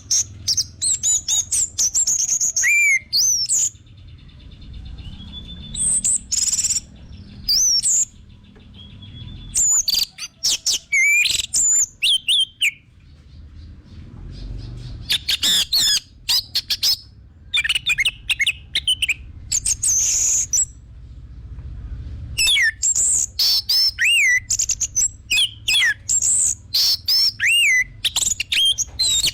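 Orange-headed thrush (anis merah) singing a loud, varied song of rapid whistles, chirps and swooping notes, delivered in phrases of a second or two with short pauses between them.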